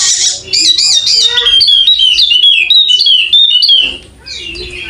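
Yellow-spectacled white-eye (Zosterops wallacei) singing a fast, loud run of high chirping, warbling notes that slide up and down, easing off briefly near the end before softer notes resume.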